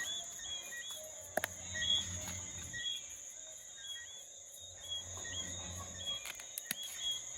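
Crickets keeping up a steady high buzz, over background music with a repeating pattern of short notes. There are two sharp knocks, one early and one near the end.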